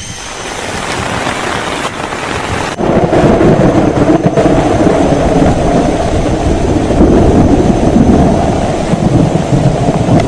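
Heavy rainstorm with a long, deep rumble of thunder that swells up about three seconds in and keeps rolling.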